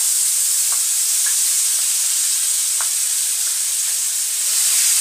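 Green pea paste sizzling steadily in hot cumin-tempered oil in a kadai as it goes in, with a few faint clicks.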